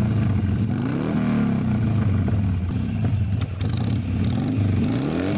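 2004 Harley-Davidson Sportster 883's air-cooled V-twin running loud through a Screaming Eagle Stage 2 exhaust with no baffles, revved up and dropped back several times.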